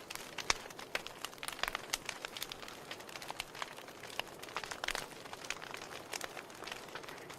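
Wood fire burning in a fireplace: logs crackling with irregular sharp pops over a steady soft hiss.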